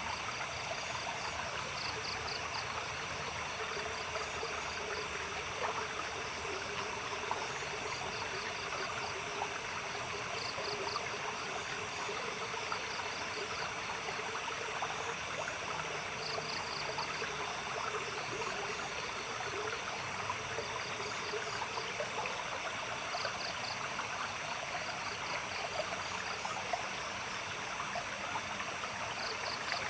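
A small stream of water trickling steadily, with night insects keeping up a high continuous shrill. Over it, a chirping call comes in short rapid pulse trains every few seconds.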